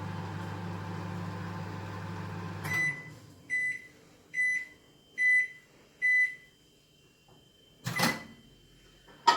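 Microwave oven running with a steady hum that stops about three seconds in, followed by five short high beeps signalling that the heating cycle is done. A sharp clunk follows near the end.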